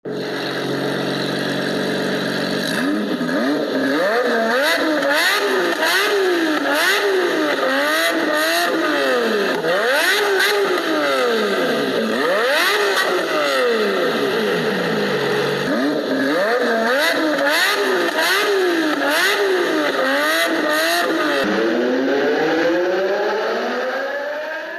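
A car engine idles steadily for a few seconds, then revs again and again, its pitch climbing and falling in repeated sweeps. Near the end comes one long rising rev.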